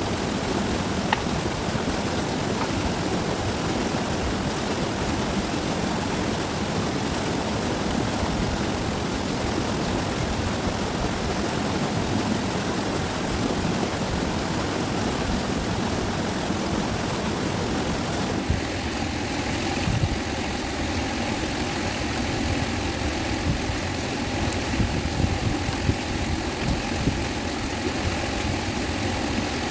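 A fast-flowing river rushing steadily. About two-thirds of the way through, the sound shifts to a deeper rumble with a faint steady hum over it.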